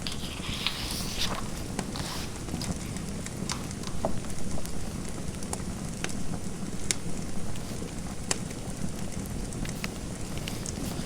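Fireplace fire crackling: scattered sharp snaps and pops over a steady low rumble, with a brief scratchy rustle in the first two seconds.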